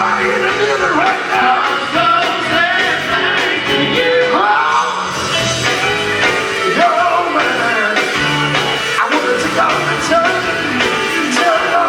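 Gospel vocal group singing live with instrumental band backing and a steady beat.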